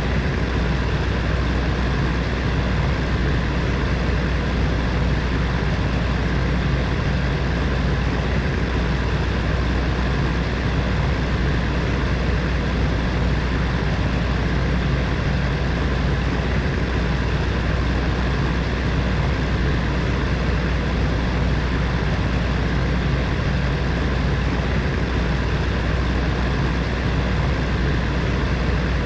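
Space heater's fan running steadily: an even whooshing rush of air over a constant low hum from its motor.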